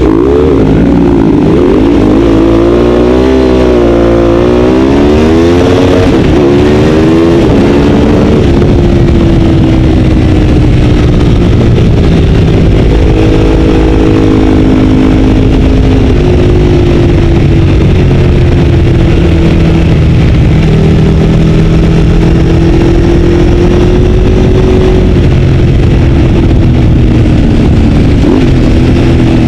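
Ducati 848's L-twin engine heard from onboard the bike, revving up and dropping back repeatedly through gear changes for the first several seconds, then running at a steadier, slowly varying speed.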